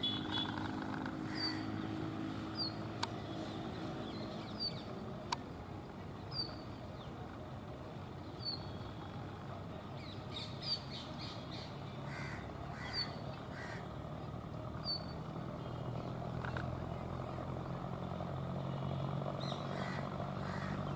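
Brown rock chat (Indian chat) calling, a short high note repeated about every two seconds. A steady low engine hum runs underneath and grows louder near the end.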